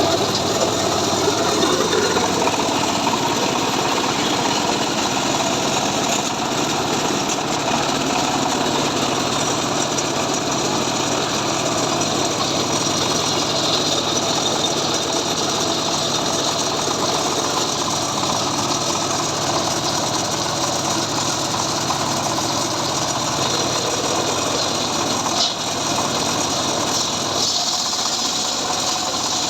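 Engine of a homemade saw rig running steadily at working speed, with a dense mechanical din that dips briefly once near the end.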